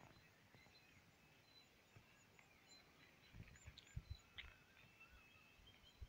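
Faint, scattered chirps and short whistles of small birds, with a few low bumps on the microphone around the middle.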